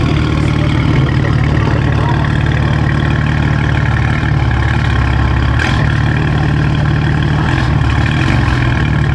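Car engine running with a steady low drone. It eases briefly about halfway through, and a single click follows just after.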